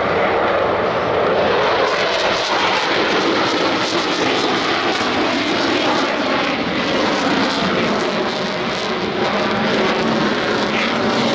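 Loud, steady engine noise from a military display aircraft flying close by, with a crackling edge through most of it.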